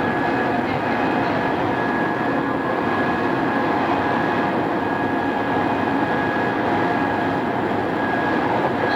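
Odakyu 2600 series electric train running steadily, heard from inside the car: an even rumble of wheels and running gear with a faint steady high whine. The sound comes from an old cassette-tape recording.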